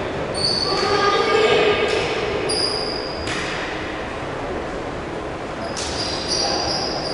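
Indoor basketball game in a large hall: sneakers squeak on the court in short, high squeals, over a murmur of players and spectators.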